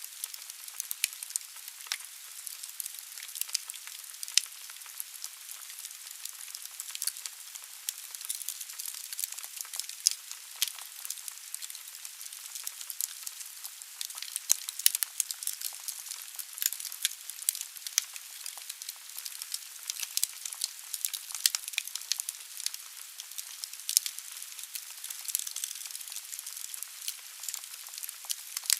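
Wood fire burning in a fireplace: logs crackling and popping irregularly over a steady hiss of the flames.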